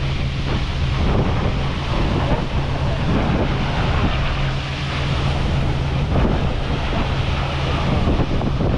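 Wind buffeting the microphone on the deck of a moving boat, over a steady low drone from the boat's engine.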